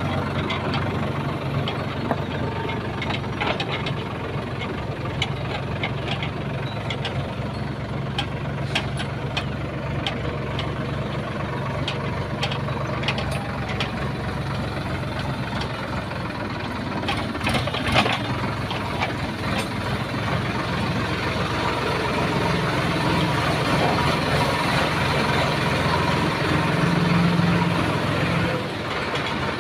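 Tractor engine running steadily as the tractor drives along the road, with scattered sharp knocks and rattles through the middle. The engine gets louder in the last several seconds, then drops back shortly before the end.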